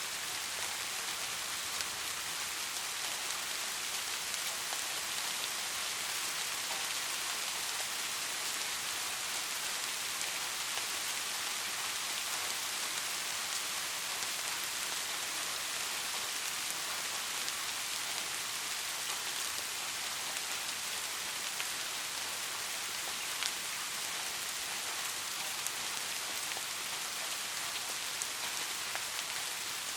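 Steady rain falling, an even hiss with scattered drops tapping on surfaces.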